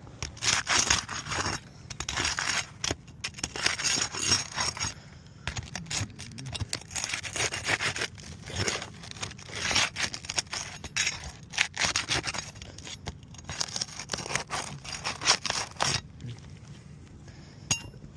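Asphalt roof shingles being scraped and worked loose: many short, rough scraping and tearing strokes in runs with brief pauses, stopping about two seconds before the end.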